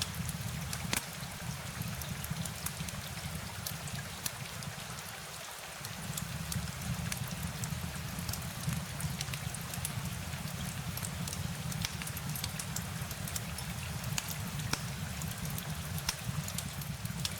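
Steady rain ambience: an even hiss of rainfall with scattered sharp drop ticks over a low rumble. The rumble fades briefly about five seconds in.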